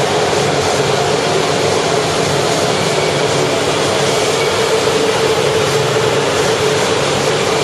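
E4 series Max double-decker Shinkansen train running along the platform in an underground station: a steady, loud rumble of wheels and running gear with a steady tone beneath it.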